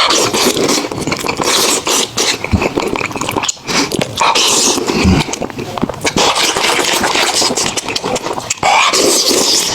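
Close-miked eating: continuous wet chewing and crunching of food with mouth and lip smacks.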